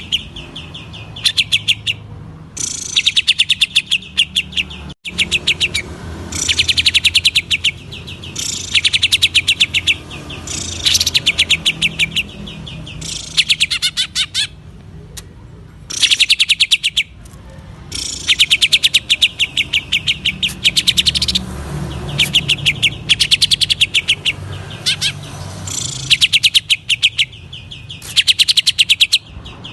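Green leafbird (cucak ijo) singing hard in the 'ngentrok' style. It gives repeated bursts of rapid-fire, high, trilled notes, each a second or two long, with short pauses between them.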